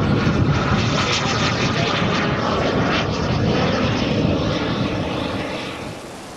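Twin JetCat P120 model gas turbines of a large RC jet running with a loud jet rush, dying away near the end.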